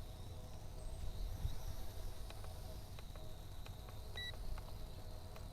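Faint steady high whine of a small toy quadcopter's motors in flight, with a low wind rumble on the microphone. A short two-pitched electronic beep sounds twice, a little over four seconds in and again near the end.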